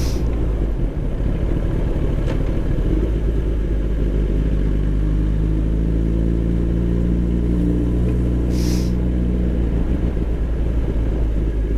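Motorcycle engine running steadily under a heavy low rumble, its pitch rising and falling a little partway through. There is a short hiss about eight and a half seconds in.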